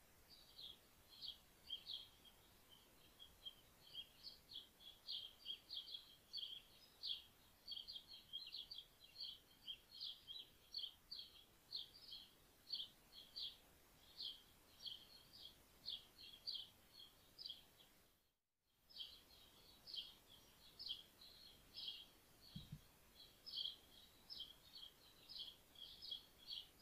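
Faint, rapid chirping of a small bird, several short high chirps a second, broken once by a brief silence about two-thirds through.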